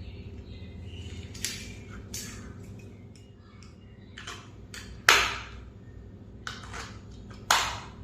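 A handful of short, sharp clicks and taps from objects being handled, the loudest about five seconds in and another near the end, over a low steady hum.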